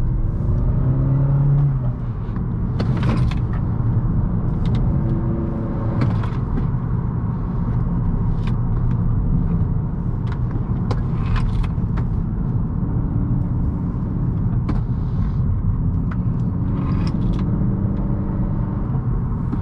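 2018 Honda Accord's 1.5-litre turbocharged four-cylinder engine running through a CVT under a steady low road rumble while driven fast on a twisting road. The engine note rises and falls several times, and a few sharp clicks and knocks sound over it.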